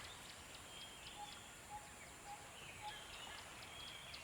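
Nature-sounds backdrop of birds calling: a short low note repeated about every half second, with higher chirps and quick gliding calls over a faint steady hiss.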